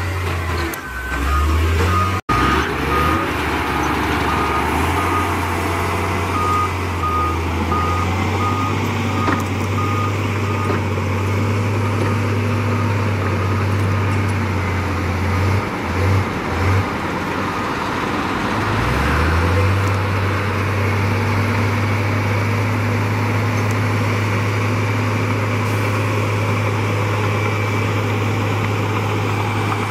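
Heavy diesel earthmoving machinery running with a steady low drone that dips briefly a few times, while a reversing alarm beeps repeatedly for roughly the first dozen seconds.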